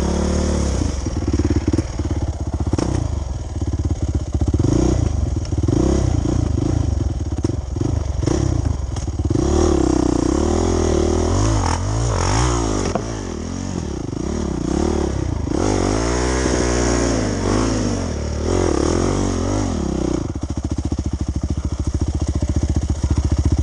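Off-road dirt bike engine running under hard throttle on a slippery mud trail, its pitch swinging up and down again and again as the revs rise and fall. There are occasional knocks and clatter from the bike.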